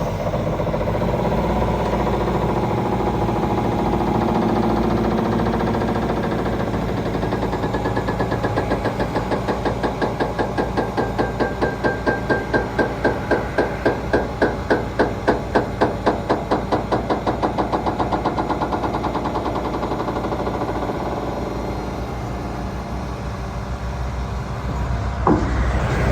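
Diesel engine of a 2006 International 7700 dump truck running steadily. In the middle stretch a rhythmic pulsing of about three to four beats a second rises and then fades away. There is one short sharp knock near the end.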